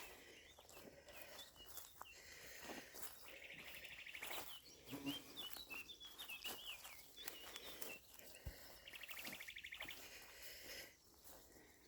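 Faint wild birdsong: one bird's fast, evenly repeated trill, sung twice several seconds apart, with high chirping notes between. The species is not identified.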